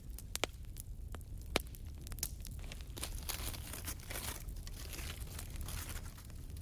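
Aluminium foil crinkling as it is handled and unwrapped, with a few sharp clicks in the first two seconds and a denser crinkle from about halfway through.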